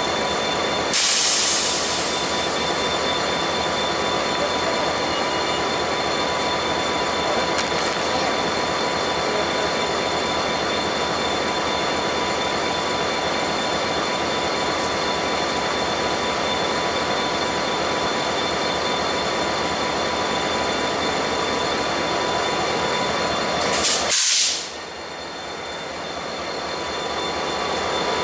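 Freight train rolling slowly, its steel wheels squealing steadily on the rails. Two short hissing bursts come about a second in and near the end.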